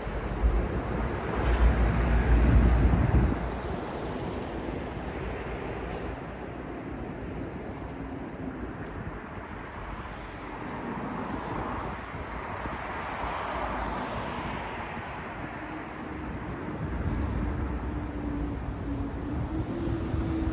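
City street traffic: road vehicles passing. A heavy low rumble fills the first three seconds, a vehicle swells past in the middle, and a steady engine hum comes in during the last few seconds.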